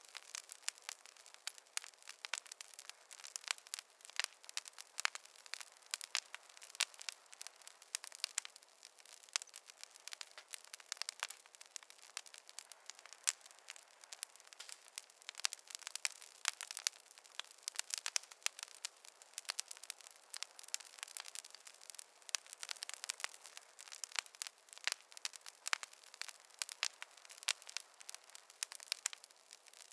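Wood fire in a fireplace crackling, with many small, irregular pops and snaps over a faint hiss.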